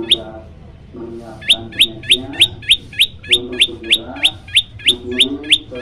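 Prenjak lumut calling: a rapid, even run of sharp, high chirps, about three a second, starting about a second and a half in and continuing to the end. Lower-pitched calls sound in short stretches underneath.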